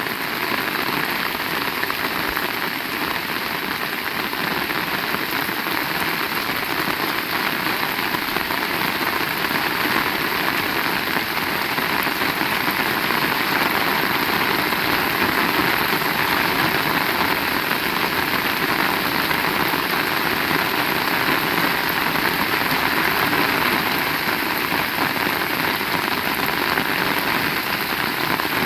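Heavy rain falling steadily, a dense, even hiss, growing slightly louder from about ten seconds in.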